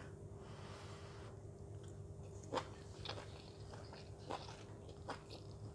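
A person chewing crunchy stir-fried Chinese long beans, faint, with a few soft crunches scattered through it over a low steady hum.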